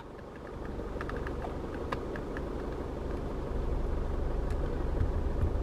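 Isuzu D-Max's 2.5-litre twin-turbo four-cylinder diesel idling, a low steady rumble heard from inside the cab, with a few faint clicks between one and two and a half seconds in.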